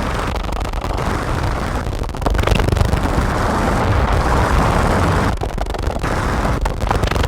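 Harsh, heavily distorted electronic noise from a Make Noise modular synth patch (Strega, Maths, Morphagene) run through Death By Audio fuzz and filter pedals. It is a dense, rumbling wash with a hissing band that swells about two seconds in and drops out briefly about five seconds in.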